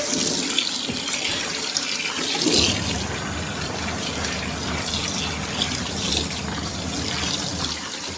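Steady rush of running, splashing water with a faint low hum underneath, swelling briefly about two and a half seconds in.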